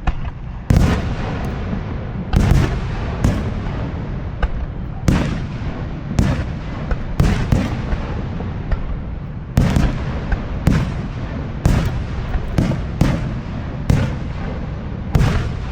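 Aerial fireworks shells bursting: a run of about fifteen loud, irregularly spaced booms, each followed by a rolling echo, over a continuous low rumble.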